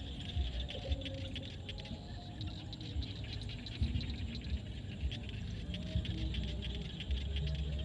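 Frogs calling in a field at dusk: a dense, rapid run of short clicking calls with scattered lower croaks, over a low rumble that swells at times.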